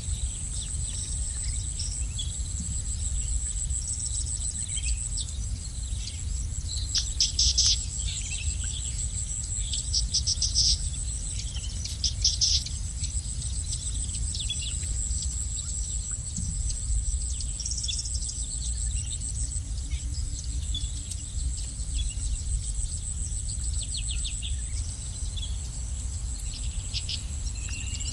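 Small birds chirping in short bursts of rapid notes, loudest about a third of the way in, over a steady high-pitched insect drone and a low rumble.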